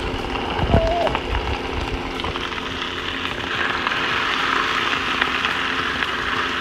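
Chicken pieces sizzling in a hot cast-iron skillet as they are turned with a slotted spatula. There are a couple of knocks about a second in, and the sizzle grows louder from about halfway.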